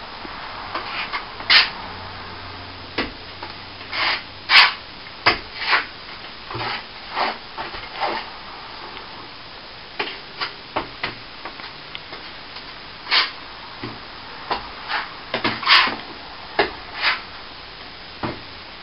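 Irregular short scrapes and taps of plastering hand tools working render, with a few sharper knocks among them.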